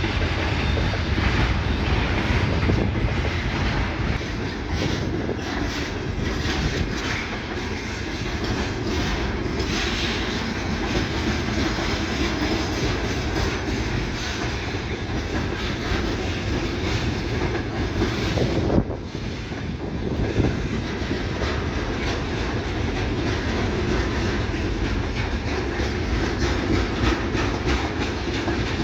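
Train running on the rails, wheels clattering steadily over the track, with one sharp knock about two-thirds of the way through.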